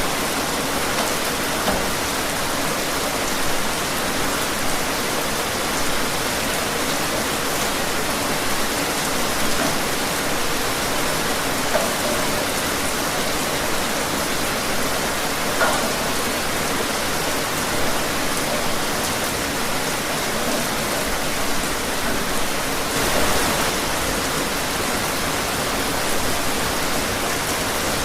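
Steady rain falling, a constant hiss with scattered louder drops and a brief swell about 23 seconds in.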